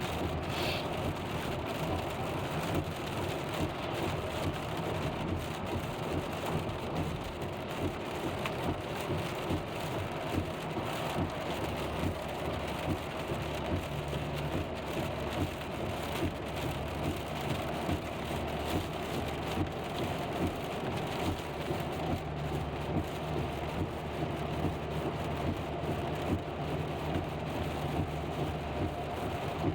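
Rain hitting a moving car, heard from inside the cabin, over steady road and engine noise.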